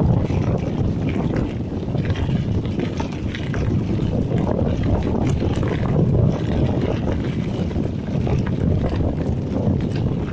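Wind rushing over an action camera's microphone while a mountain bike is ridden along a dirt trail, with scattered clicks and rattles from the bike.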